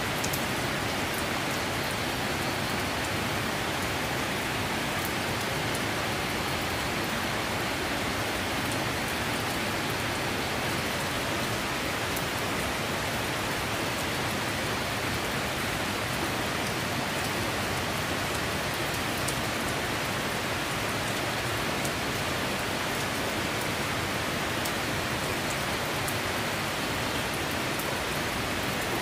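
Steady rain falling, with scattered ticks of individual drops striking a surface.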